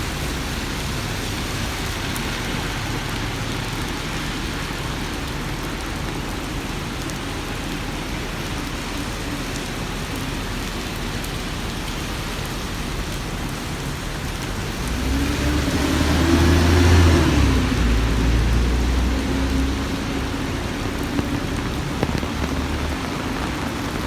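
Steady rain falling on hard surfaces. About fifteen seconds in, a vehicle passes, its low engine note and wet-road hiss swelling and then fading over a few seconds.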